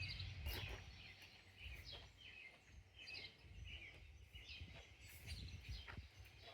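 Faint birdsong: small birds chirping over and over in quick, short phrases, over a low steady background rumble, with a few faint clicks.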